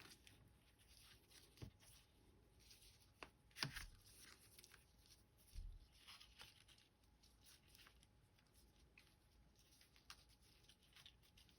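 Near silence with faint scattered rustles and light ticks of ribbon and paper being handled while a bow is tied on a card.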